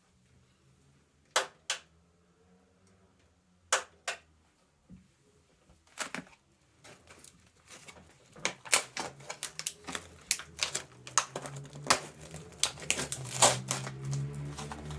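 Hard kitchen clatter: a few single sharp knocks, then from about halfway a quickening run of quick taps, with a low steady hum coming up near the end.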